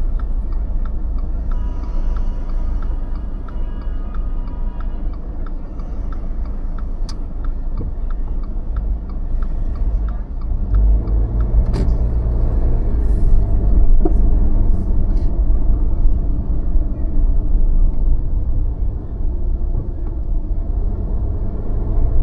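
Car driving through city streets: a steady low road and engine rumble that grows heavier about ten seconds in. A light, regular ticking about twice a second runs through the first half.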